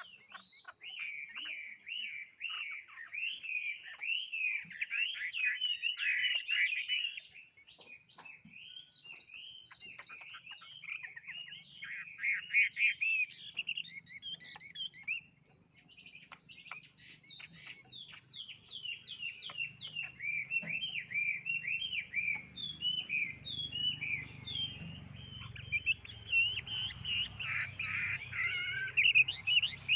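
A songbird singing a fast, continuous run of varied chirps and trills, breaking off briefly about seven and fifteen seconds in.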